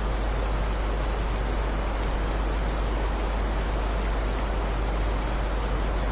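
Steady heavy rain: an even, unbroken hiss over a deep low rumble, with no single drops standing out.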